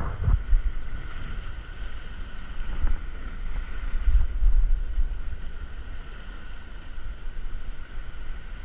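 Wind gusting over the microphone in uneven low rumbles, over the steady wash of ocean surf.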